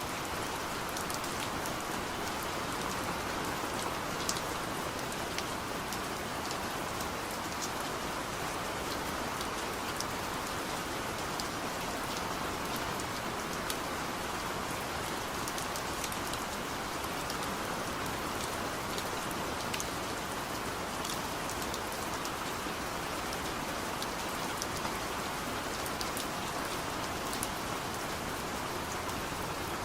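Steady rain with individual drops ticking sharply on a surface.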